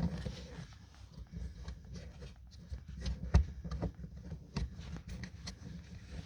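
Handling noise from a scan tool's plastic connector and cable being fitted toward the OBD-II diagnostic port under a car's dash: irregular light clicks and knocks over a low rumble, with one sharper knock about halfway through.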